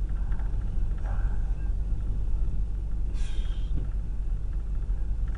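Steady low rumble of a car's engine and running gear heard inside the cabin while creeping along at about a mile an hour, with two faint brief noises about one and three seconds in.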